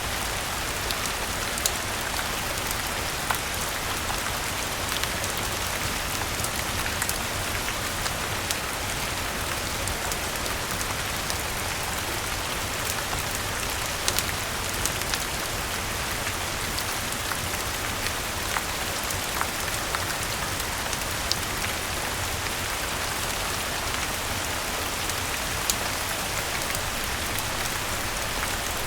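Steady rain falling with an even hiss, over scattered sharp crackles and pops from a wood fire burning in a fireplace.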